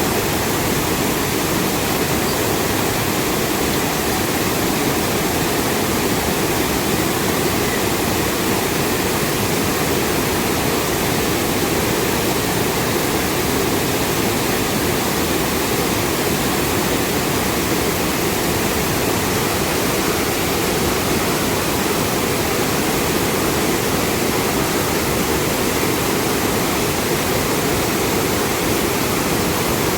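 Steady, loud rushing of water, even and unbroken, with no single drops or strokes standing out.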